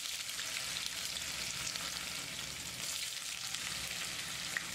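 Cubes of paneer frying in hot oil in a pan: a steady, crackling sizzle.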